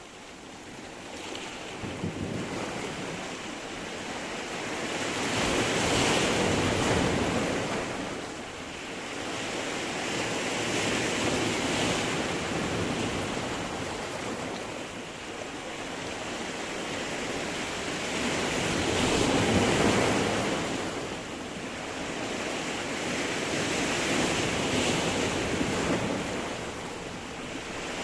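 Sea surf breaking and washing over stones on the shore. Each wave swells and then draws back, about every six seconds.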